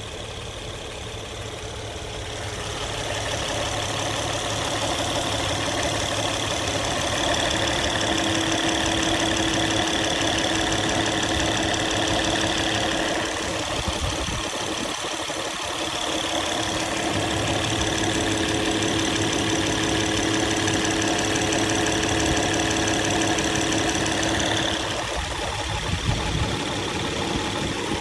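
Engine running with a newly replaced hydraulic tensioner, free of the earlier tensioner noise. Its speed rises a few seconds in, dips about halfway, rises again and drops back near the end.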